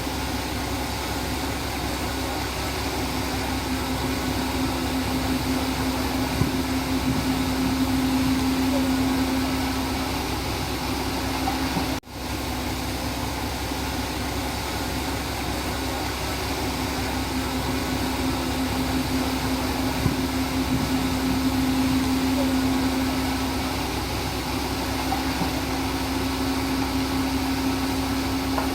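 Komatsu D31P bulldozer's diesel engine running steadily with a low droning hum, swelling louder twice. The sound cuts out for an instant about twelve seconds in.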